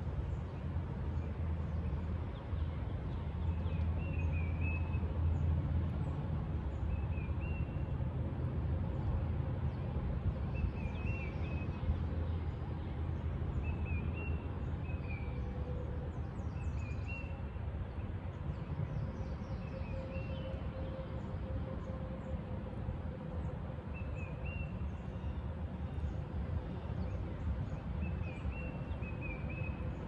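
Woodland ambience: a bird gives short chirps again and again, a few seconds apart, over a steady low rumble. Fainter high chirps from other birds come in around the middle.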